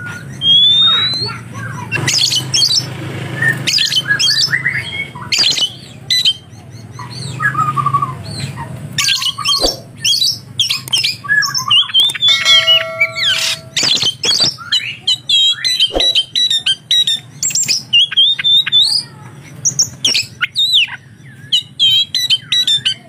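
Oriental magpie-robin (kacer) singing a fast, unbroken medley of chirps, whistled glides and harsh squawking notes, its song laced with imitations of lovebird calls.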